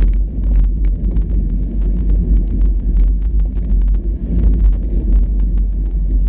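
Off-road vehicle driving over a rough trail: a steady low rumble with frequent knocks and rattles.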